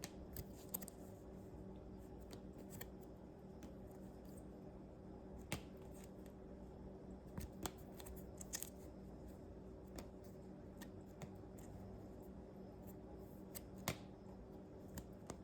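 Plastic pages of a trading-card binder being flipped and handled, giving scattered soft clicks and crinkles at irregular intervals over a faint steady hum.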